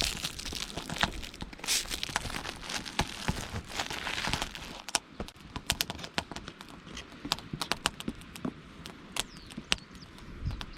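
Wood campfire crackling: a dense rustling crackle for the first half, then irregular sharp pops and snaps.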